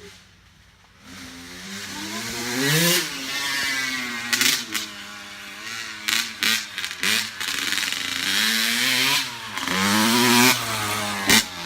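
Dirt bike engine revving as the bike is ridden, its pitch climbing and dropping again and again with throttle and gear changes. It starts about a second in, with a few short sharp knocks or bumps mixed in.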